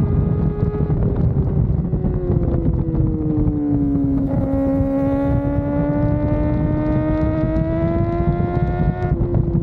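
Kawasaki ZX-4RR's inline-four engine running under way, with wind rush on the microphone. The engine note falls over the first four seconds, then slowly climbs again, with a sudden break in pitch near the end.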